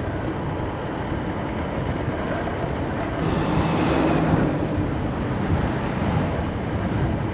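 Street traffic and rushing wind noise picked up while riding a scooter along a city street, growing louder for a moment about four seconds in.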